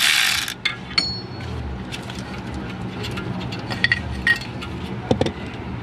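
A ratchet running, cutting off about half a second in, then scattered sharp metallic clinks of tools and parts, a couple of them ringing briefly.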